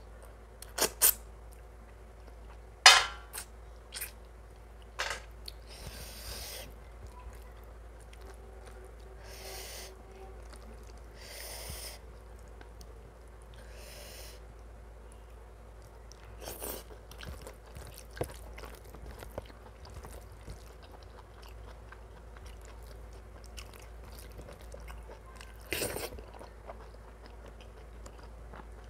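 A person eating mutton curry and rice close to the microphone: wet chewing with sharp mouth smacks and crunchy bites. The loudest bite comes about three seconds in, and softer, hissy smacks recur every few seconds after it.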